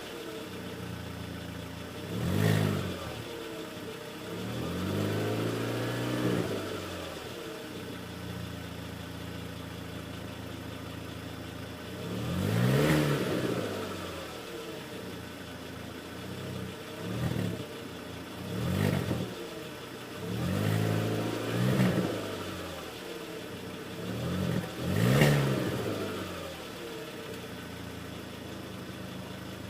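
Mk4 VW Golf's 2.0-litre 8-valve four-cylinder engine, with the exhaust resonator deleted and the stock muffler kept, idling and being revved about seven times. Some revs are quick blips and some are slower, longer pulls, and each one drops back to idle.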